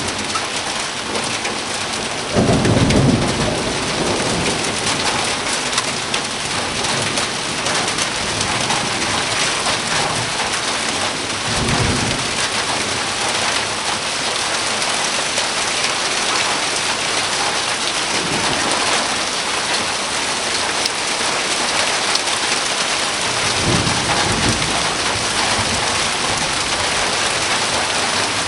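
Heavy rain falling steadily, with several low rumbles of thunder; the loudest comes about two and a half seconds in, with fainter ones near the middle and later on.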